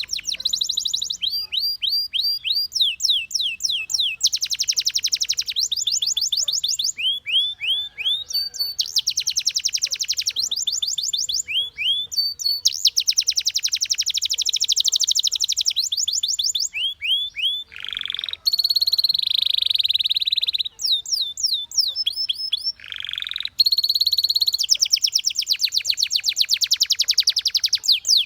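Canary singing a long song of rapid trills, each a quick run of repeated high notes, switching to a new trill every second or two. Two broader, buzzing notes come about two-thirds of the way through.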